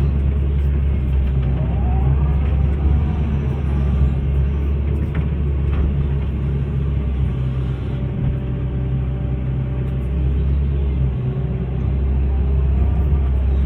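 Hitachi excavator's diesel engine running steadily with a low drone. A whine rises and falls briefly about two seconds in and again near the end, as the hydraulics take load.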